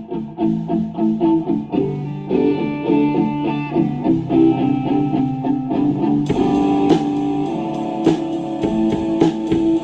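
Electric guitar playing picked notes and chords, with sharp percussive hits joining about six seconds in.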